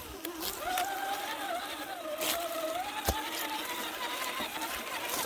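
Radio-controlled car's motor whining, its pitch rising and falling as the throttle changes, with a few sharp knocks; the loudest knock comes about three seconds in.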